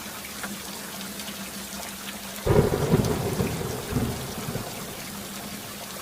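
Steady rain hiss with a thunderclap about halfway through, a sudden low rumble that dies away over about two seconds.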